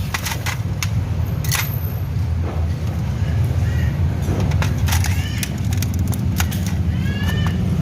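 Steady low hum with scattered light metallic clicks and clinks, and a few short chirping calls about five and seven seconds in.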